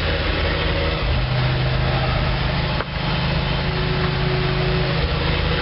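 GMC 366 gasoline V8 in a school bus running steadily at a fast idle with the choke still pulled out, just after its first cold start in four months on a freshly rebuilt carburettor; it will not stay running without the choke. A single short click about three seconds in.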